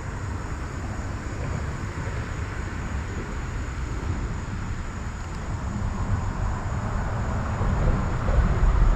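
A steady low rumbling noise with no distinct events, growing gradually louder toward the end.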